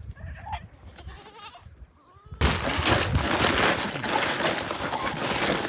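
Faint bleating of herd animals over the first two seconds, then a loud, steady rushing noise starts abruptly about two and a half seconds in and carries on.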